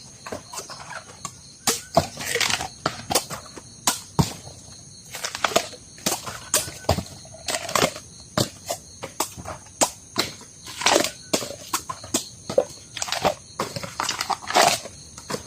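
Irregular sharp snaps, cracks and knocks with short rustling swishes, from bamboo shoots being cut and handled. A steady chorus of crickets runs underneath.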